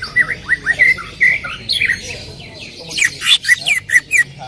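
Cucak ijo (leafbird) singing loudly in a rapid string of whistled chirps and slurred notes, turning to sharper, louder sweeping notes about three seconds in.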